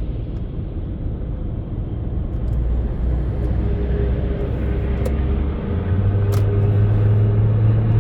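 Car driving on the road, heard from inside the cabin: a steady low engine and road hum that steps up in pitch a little before six seconds in.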